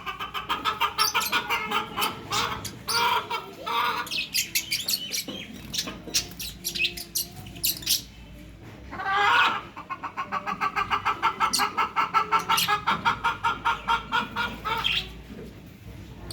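Fischer's lovebirds chattering: rapid runs of sharp chirps, busy at first, thinning out for a few seconds, then a louder call and another fast run of about six or seven chirps a second.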